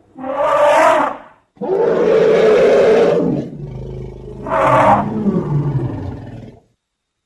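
Elephant calls: three loud roaring blasts, the last over a lower, wavering call. They cut off suddenly near the end.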